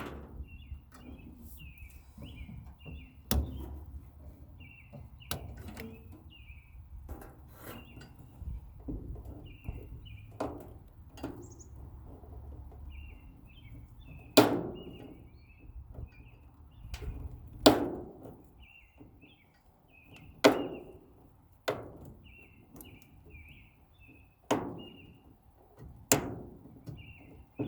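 Irregular sharp knocks and bangs on a sheet-metal furnace being taken apart for scrap, a dozen or so strikes, the louder ones ringing briefly. Small birds chirp over and over in the background.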